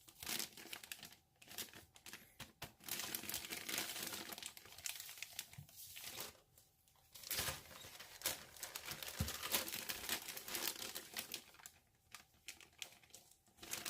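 Plastic packaging crinkling and rustling in irregular stretches as model-kit parts and sticker sheets are handled, with short pauses between.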